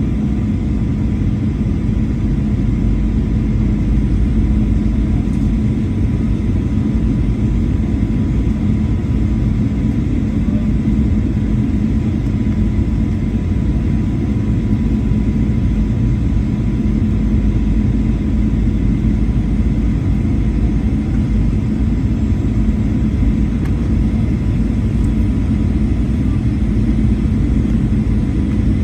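Boeing 737-800 jet engines giving a steady low rumble, with a faint steady whine above it that does not rise or fall.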